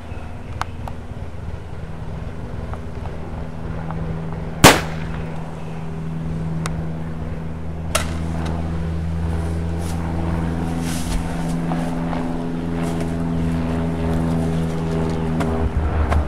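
A single sharp rifle shot about a third of the way in, with a few fainter clicks, over a steady low drone of held tones that slowly grows louder.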